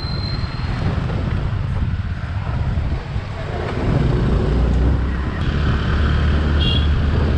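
Motorcycle riding on a paved road, its engine running steadily under wind noise buffeting the microphone. The engine tone gets louder about four seconds in.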